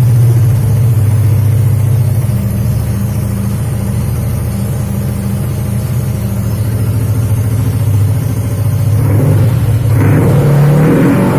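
Yamaha NMAX scooter's single-cylinder engine running through a Tsugi aftermarket exhaust, styled like the stock muffler. It idles steadily, then is revved up about nine seconds in.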